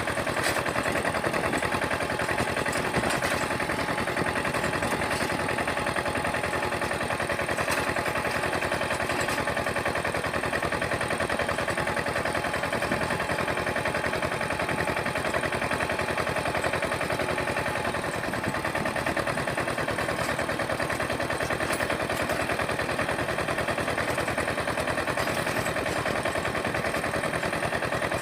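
Engine of a Sanedo mini tractor running steadily with a rapid, even pulsing beat.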